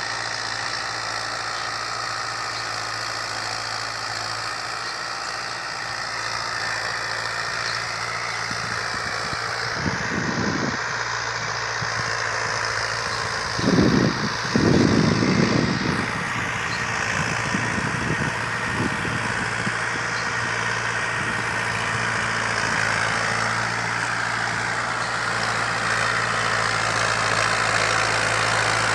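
Fiat 640 tractor's four-cylinder diesel engine running steadily, with a few heavy low rumbles about ten and fourteen seconds in. The sound grows gradually louder toward the end.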